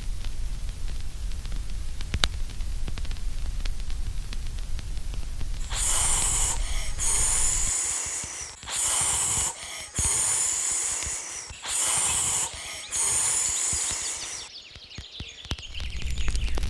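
Low rumbling static noise with faint crackles, which gives way about six seconds in to loud hissing in several long bursts broken by short gaps, ending with a falling whine.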